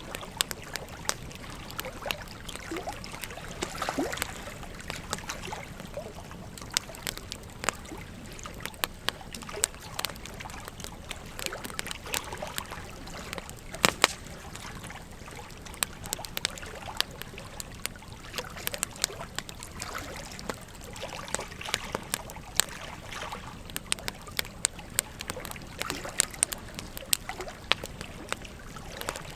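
Wood campfire crackling with frequent sharp pops at irregular intervals, the loudest about halfway through, over the steady trickle of a gentle stream.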